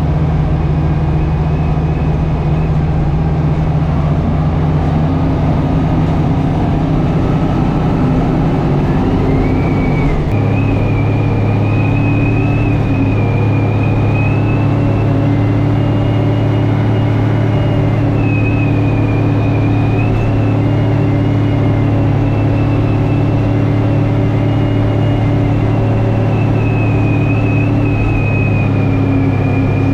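Tractor engine running steadily under load while plowing compacted snow and ice. Its pitch drops to a lower, steady speed about ten seconds in, and a thin high whine runs above the engine sound.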